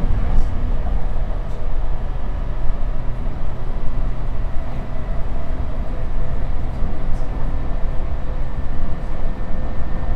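Interior running noise of an E235-1000 series electric train cruising between stations: a steady low rumble with a faint steady whine and occasional light clicks from the wheels on the track.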